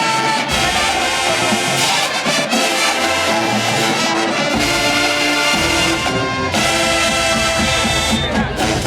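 HBCU marching band brass section playing loud, full chords, with long held chords in the second half over deep low brass.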